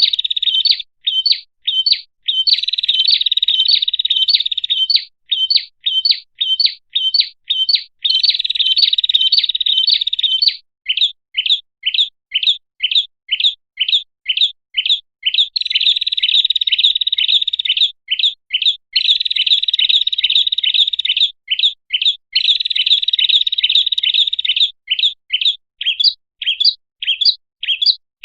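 Prinia (prenjak) calling: long, rapid, buzzing trills alternate with runs of separate sharp chirps, about three a second. This is a bird-lure call recording.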